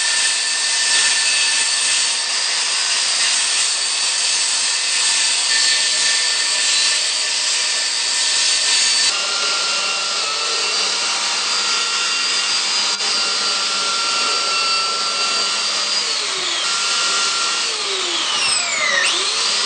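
An older corded circular saw with a wood-cutting blade, running and cutting through an Onyx shower wall panel along a taped line. Its motor whine drops in pitch about nine seconds in, then falls and rises again near the end.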